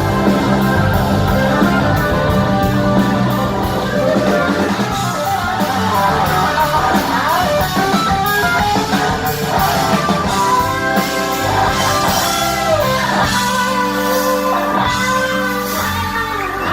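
A live rock band playing, led by an electric guitar with bending, gliding notes. Bass and drums, with regular cymbal hits, play underneath.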